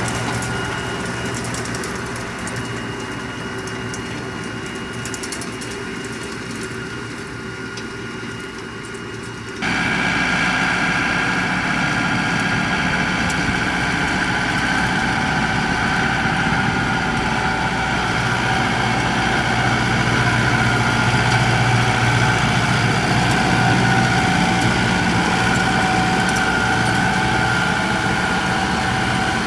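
Tractor engines running steadily. About ten seconds in the sound cuts abruptly to a louder engine with a stronger, steady hum.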